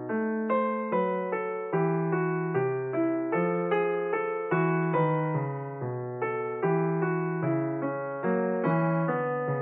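Background music: a solo piano playing a slow, gentle melody. Each note is struck and rings down before the next.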